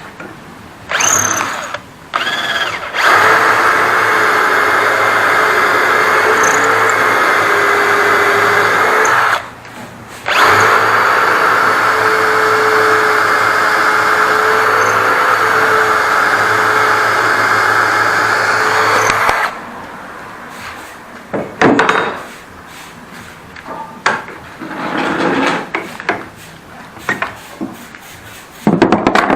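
Cordless drill boring dowel holes in wood: two brief starts, then two long steady runs of about six and nine seconds with a short pause between. After the drill stops, scattered knocks of wood and tools follow.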